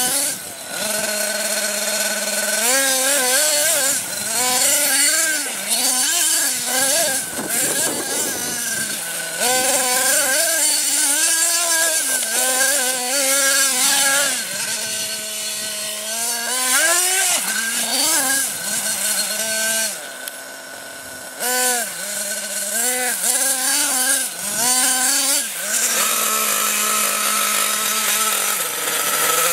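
Nitro RC monster truck engine running, its pitch climbing and falling again and again as the throttle is worked, and settling to a steady buzzing idle in between, as it does for a few seconds near the end.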